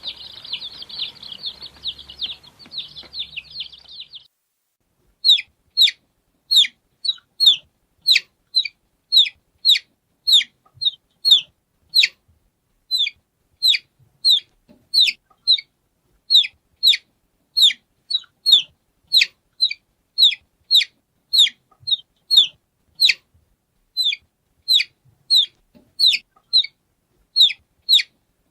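Baby chicks peeping: a dense chorus of many overlapping peeps for the first four seconds, then after a short break a single chick's clear peeps, each falling in pitch, about two a second.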